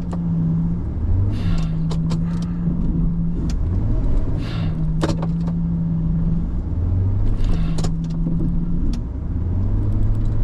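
A stuck plow truck straining in snow. Its drive note runs on throughout, while a steady low hum cuts in and out in spells of about a second and a half, four times, under lower rises in engine pitch. There are a few sharp clicks along the way.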